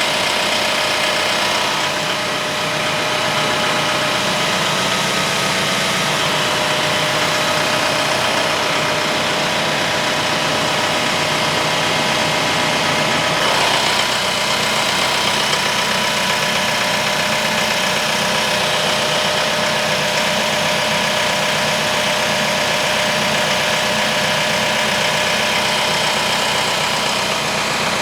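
Diesel engine of a 75-horsepower TYM T754 tractor running steadily.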